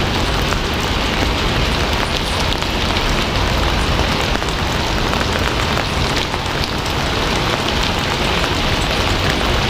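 Steady rain falling on a surface, an even hiss with many small drop patters throughout.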